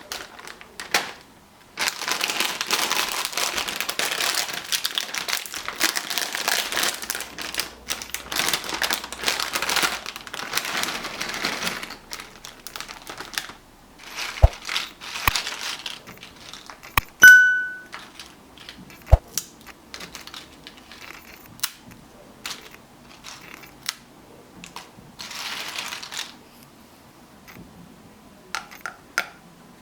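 Dry crinkling and crackling of potato chips and their packaging being handled and crushed, in long stretches, with scattered sharp clicks and knocks. A short, loud high beep sounds about 17 seconds in.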